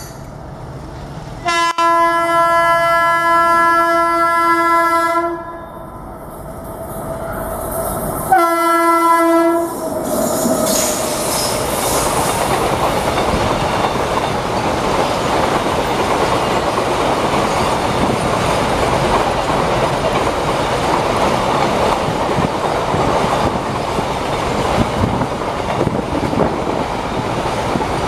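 WAG-9 electric locomotive horn sounding twice as the double-stack container freight train approaches: a long blast of about four seconds, then a short one. The container wagons then pass close by with a loud, steady rumble of wheels on rail and the clickety-clack of rail joints.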